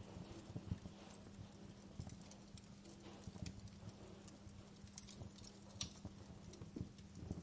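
Wood fire crackling: irregular small pops and snaps over soft low thuds, with one sharper pop about six seconds in.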